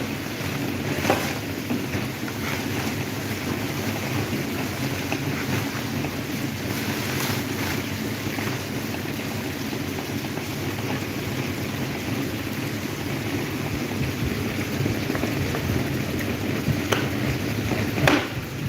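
Electric table fan running: a steady whir of the motor and blades, with its air buffeting the microphone and a few sharp clicks, the loudest near the end.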